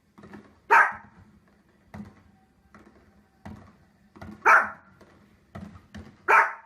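A dog barking: three loud single barks a couple of seconds apart, with softer, shorter sounds in between.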